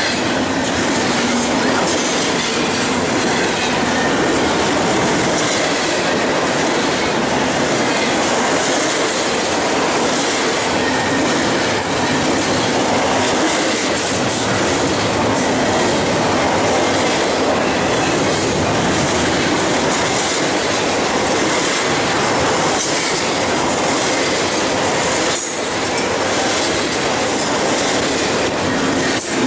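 BNSF double-stack intermodal freight train passing close by at speed: a steady, loud rumble and clatter of steel wheels on the rails as the container well cars go by.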